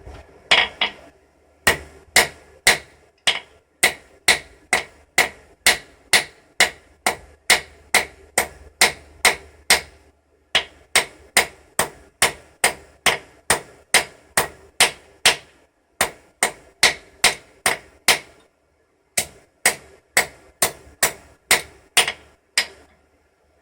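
Steady hand-hammer blows striking metal while forging a hook, about two and a half a second, each with a short ringing tone. The hammering pauses briefly a few times.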